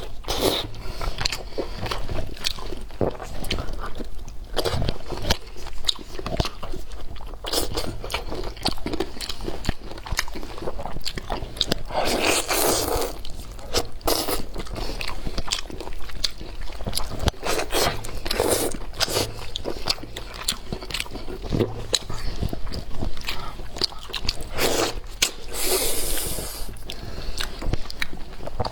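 Close-miked eating: biting into and chewing food, with crunchy bites and many short clicks. Twice the sound swells into a longer, louder stretch of about a second.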